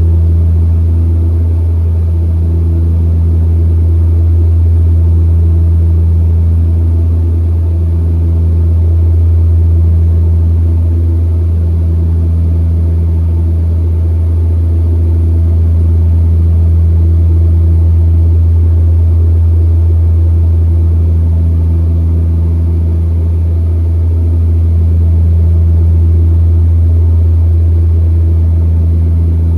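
Cabin drone of a DHC-6-300 Twin Otter's two Pratt & Whitney PT6A turboprops and propellers running at steady power: a loud, deep, even hum with a slow wah-wah throb every couple of seconds, the beat of two propellers turning at slightly different speeds.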